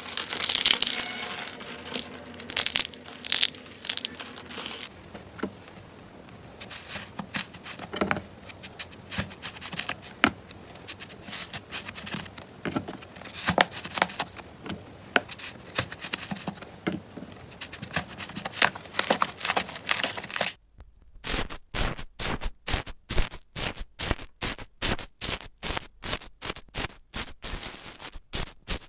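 Slime being squeezed and worked by hand, giving irregular crackling, crinkly clicks. About two-thirds of the way in the sound cuts to a regular series of sharp pops, about two a second.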